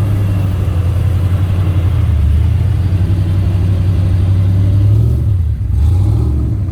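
Car engine running as the car drives slowly past, a steady low rumble that wavers in pitch for a moment about five seconds in.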